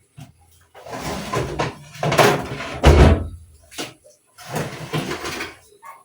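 Cooking pots and utensils being handled: scraping and knocking in three bursts, the loudest with a heavy knock about three seconds in.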